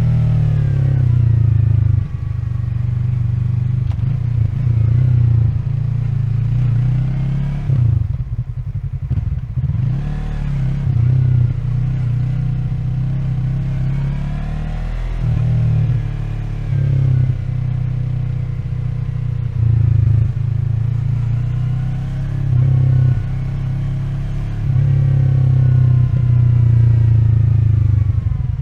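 Yamaha MT-03's 321 cc parallel-twin engine running in stop-and-go riding, its pitch rising and falling with repeated throttle openings and gear changes. It drops low about eight seconds in, then picks up again in several short surges.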